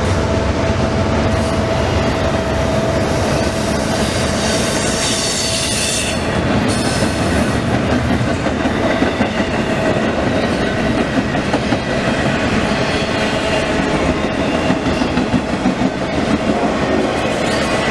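CSX intermodal freight train rolling past: a steady, loud rumble of steel wheels on rail with clickety-clack over the joints and a thin, steady wheel squeal.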